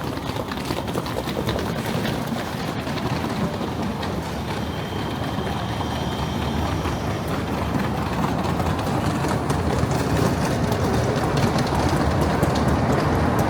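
Steady rumble of city traffic on wet streets, growing slowly louder as a vehicle draws near, with a faint thin whine for a few seconds midway.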